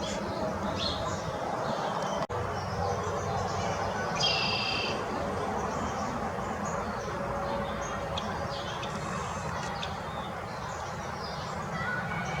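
Wild backyard birds chirping and calling here and there, over a steady low outdoor background noise, with one louder, harsher call about four seconds in.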